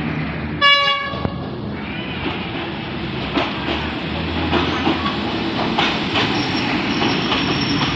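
Diesel passenger train gives one short horn blast about a second in, then rolls along the platform with a steady rumble and the clickety-clack of its wheels over the rail joints. A thin, high wheel squeal starts near the end.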